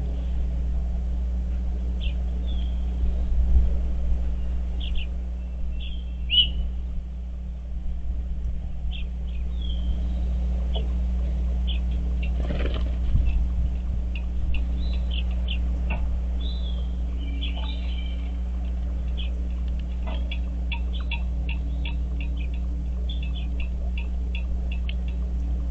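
Songbirds at a feeder giving short, high chirps and calls, scattered at first and then in a quick run near the end, over a steady low rumble and hum.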